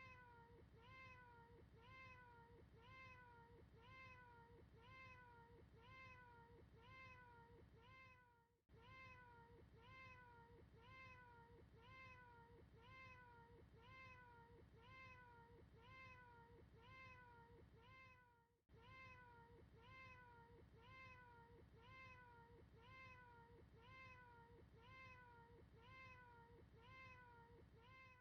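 A short, faint cat meow repeated in a tight loop, about twice a second, each call identical. There are brief breaks about every ten seconds.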